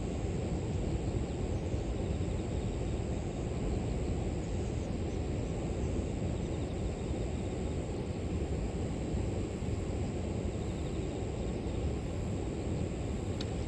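River water rushing steadily, a deep even wash of flowing water, with a thin high steady drone of grass insects over it. A single short high chirp or click comes near the end.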